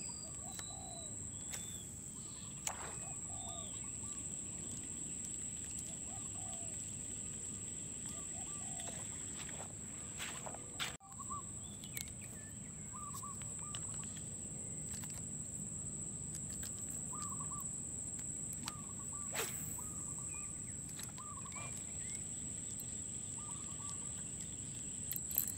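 Outdoor ambience: faint, short bird calls scattered through, over a steady high-pitched hum, with a few brief clicks.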